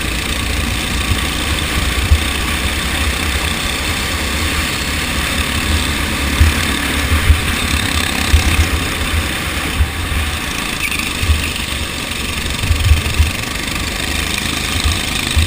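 Go-kart engine running during a race, heard as a steady engine-and-air noise, with irregular low rumbling thumps from wind buffeting the microphone.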